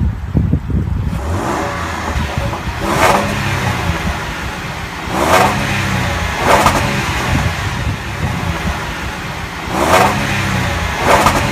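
2015 Land Rover LR4's 3.0-litre supercharged V6 idling and blipped five times, each rev rising and falling back to idle.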